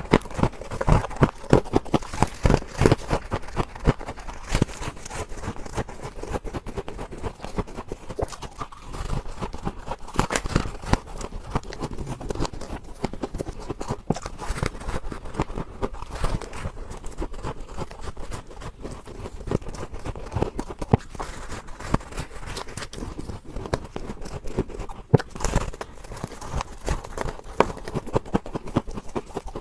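Freezer frost ice being bitten and crunched close to the microphone: a dense run of crisp crunches, with louder bites now and then.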